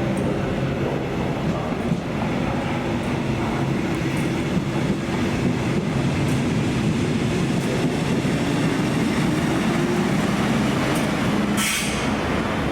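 Electric-locomotive-hauled passenger train running past: a dense, steady rolling rumble with a steady motor hum, and a brief high-pitched screech near the end.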